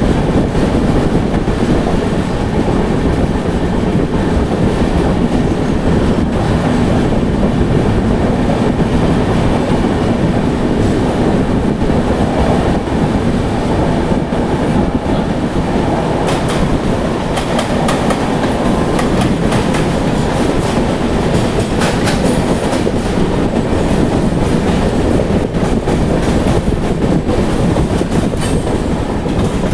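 Moving passenger train running along the track: a loud, steady rumble of wheels on rails with clickety-clack, and sharper clicks over the track in the second half.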